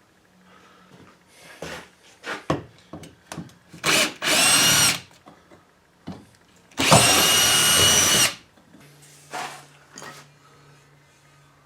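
A small power tool's electric motor runs in two short bursts, the first about a second long and the second about a second and a half, at a steady whine, with clicks and knocks of handling between them.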